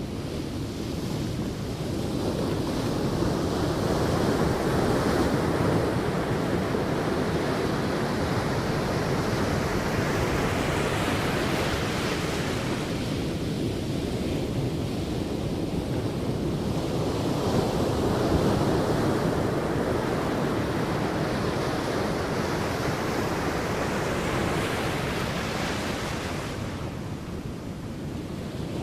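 Sea waves breaking and washing on a beach, in slow surges that build and ebb every six or seven seconds, with some wind on the microphone.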